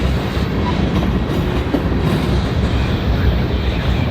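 Train rolling past, its wheels running steadily on the rails with a few light clicks.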